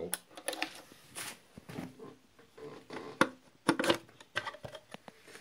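Irregular clicks and light knocks of metal engine parts being handled during a two-stroke dirt-bike engine teardown, with the sharpest knocks a little past the middle.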